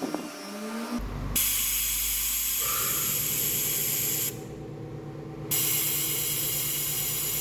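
Air hissing hard in two long blasts, stopping for about a second between them, over a steady low machine hum.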